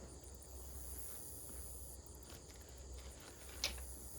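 Steady high-pitched chirring of insects in the background, with a low steady rumble underneath and a single sharp tap a little over three and a half seconds in.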